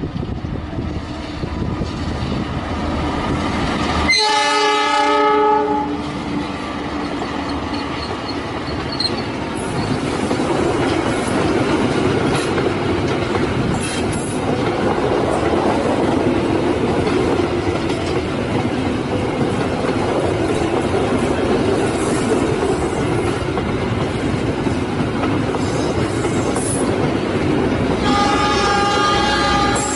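Diesel locomotive horn sounding a loud blast about four seconds in, lasting about two seconds: the driver's horn greeting to a trackside onlooker. The train then runs past with a steady rumble and wheels clattering over the rail joints, and another horn blast sounds near the end.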